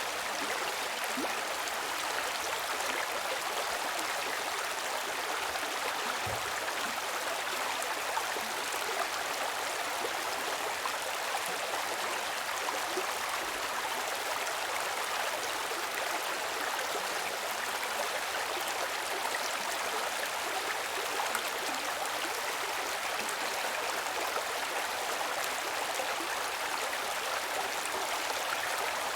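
Running water of a stream flowing over rocks: a steady, even rush with no breaks.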